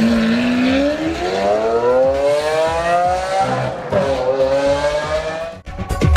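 Car engine accelerating hard, its pitch climbing steadily for about three seconds, dropping at a gear change about four seconds in, then climbing again before the sound cuts off abruptly near the end.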